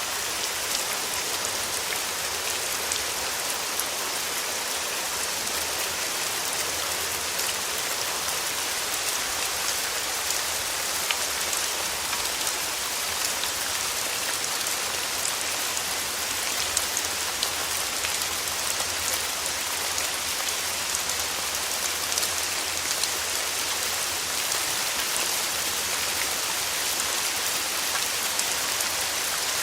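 Steady rain falling, a dense hiss of drops with many small sharp patters on a surface.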